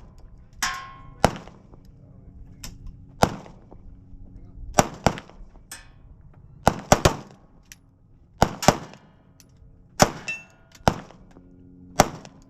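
Handgun shots fired one at a time at uneven intervals, about a dozen in all, several followed by a short metallic ring of bullets striking steel targets.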